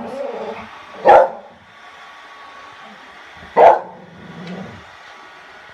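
A dog barking: two loud single barks about two and a half seconds apart, over a steady low hum.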